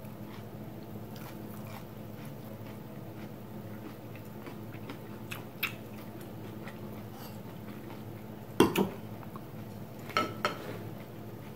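A person biting and chewing a crispy breaded fried cheese stick, with faint crunching over a steady low room hum. A sharp knock comes about three-quarters of the way in, and two lighter clicks follow shortly after.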